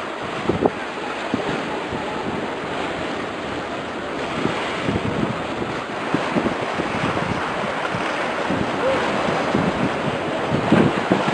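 Wind buffeting the microphone in irregular gusts over a steady wash of sea waves.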